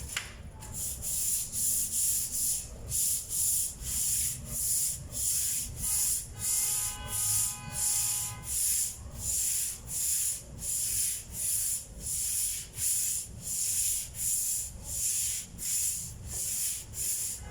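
400-grit sandpaper rubbed back and forth by hand over puttied filler on a table, smoothing it, in steady strokes about two a second. A faint pitched tone sounds in the background for a couple of seconds midway.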